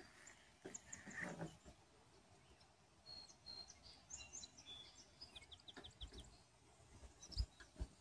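Faint wild songbirds chirping and calling, with a quick run of about six short notes a little past the middle. A few soft low thumps sound near the end.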